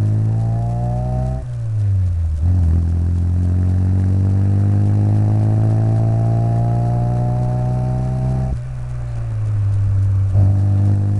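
Classic Mini's 1275cc A-series four-cylinder engine, breathing through a Maniflow long-centre-branch manifold and a twin-box RC40 exhaust, pulling under acceleration. The pitch climbs, falls at a gear change about a second and a half in, then rises steadily for about six seconds before dropping as the throttle is lifted.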